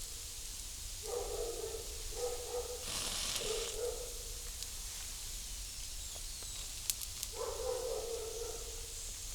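An animal calling four times: three calls close together, then one more a few seconds later. A short hiss comes about three seconds in, and a sharp click comes about seven seconds in.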